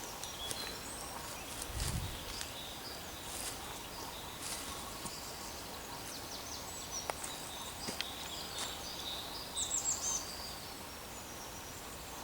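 Woodland bird song: several small birds chirping and whistling on and off, with a busier run of high chirps about ten seconds in. A short low thump comes about two seconds in.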